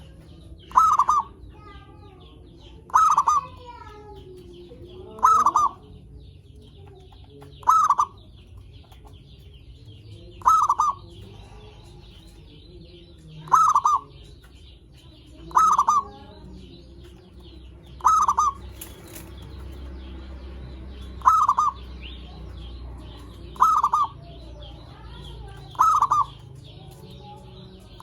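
Zebra dove (perkutut) cooing: a short call repeated about every two to three seconds, eleven times, over faint higher chirping.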